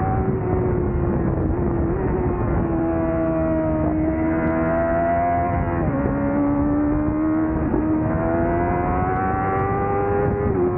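Honda CBR1000RR-R Fireblade's inline-four engine running hard at high revs on track, its pitch climbing slowly and dropping suddenly at gear changes, clearly about halfway and again near the end, over a steady rush of wind.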